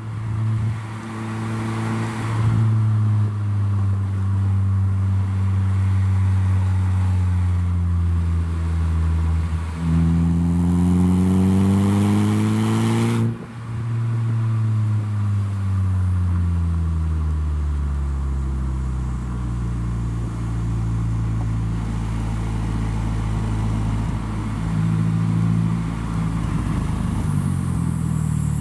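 Saab 9-3 with a handmade stainless-steel full exhaust with a switchable valve, heard while driving. The engine note sinks slowly, then jumps up and climbs for a few seconds around the middle before it breaks off sharply, as in a gear change or lift-off. It then falls away and settles into a steady low drone.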